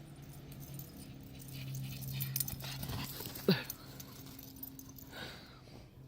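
Australian cattle dog giving a short, sharp yip about halfway through and a fainter one near the end, with snow rustling and crunching as she digs.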